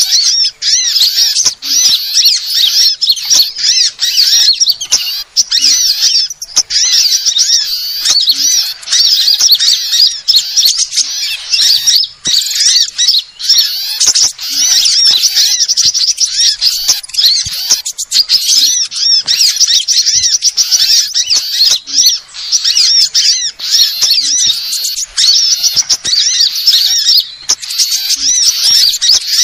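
A bird-lure recording of small songbirds calling, with many rapid high chirps and twitters overlapping in a dense, unbroken chatter. It is a mixed lure track built around sunbird calls.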